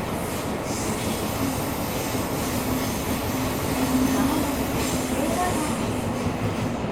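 Tokyo Metro 17000 series subway car running between stations, heard from inside the car: a steady rumble of wheels on rail with a humming motor tone and a thin high whine, the tone shifting in pitch briefly about five seconds in.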